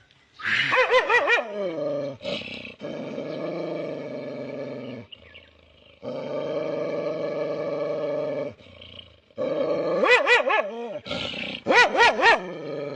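A dog vocalizing in a howling, growling way. The pitch wobbles up and down in bouts near the start and again after about ten seconds, with long, steadier drawn-out stretches in between, broken by short pauses at about five and nine seconds.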